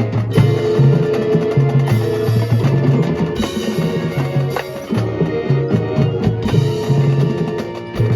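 High school marching band playing its field show, with drums and sharp percussion strokes over held notes and a low line that steps from note to note.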